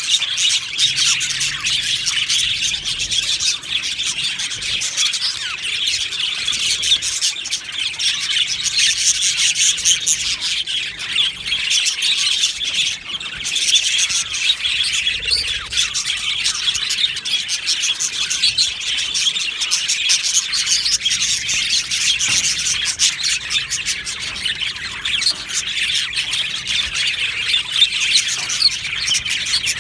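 A colony of budgerigars chattering continuously: many overlapping chirps, warbles and squawks with no pause.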